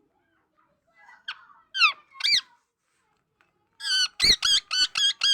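Pet parrot making high squeaky calls: three separate sliding squeaks, then a rapid run of about six short calls near the end.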